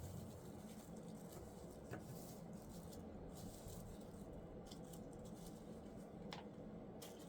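Quiet room tone with two faint light clicks, about two seconds in and again near the end.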